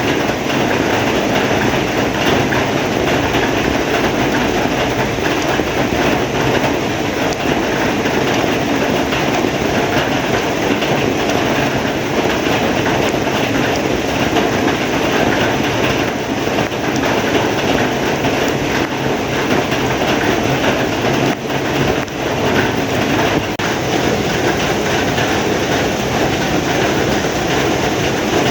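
Heavy rain pouring steadily, a loud, even rush with a brief lull about three-quarters of the way through.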